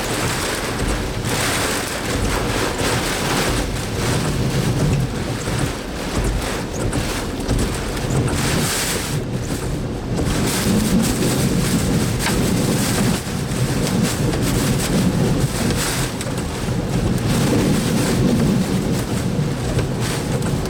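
Hurricane-force eyewall wind rushing and gusting, surging louder and softer, with wind buffeting the microphone.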